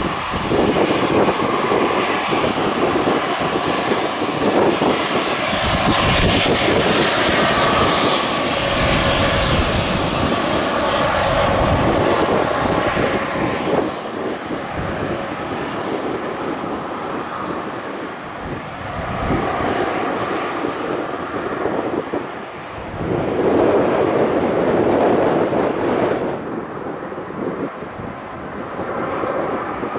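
Fixed-wing aircraft engine noise that swells and fades, loudest about three quarters of the way through, with gusty wind buffeting the microphone.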